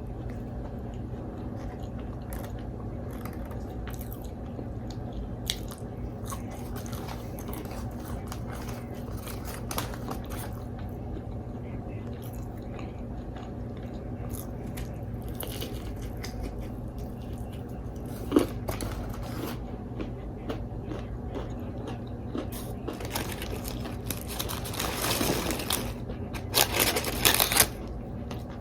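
Close-miked eating of fried chicken wings: chewing and biting with soft mouth clicks, and louder crunchy bites near the end, over a steady low hum.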